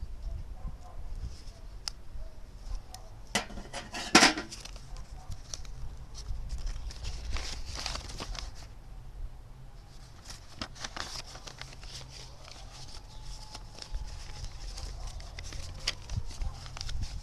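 Hand work on a thin metal cookie tin: scattered snips and clicks, with a louder sharp clank about four seconds in and short bouts of metal scraping.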